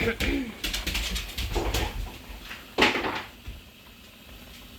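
A few light clicks and knocks of things being handled, with one louder knock about three seconds in.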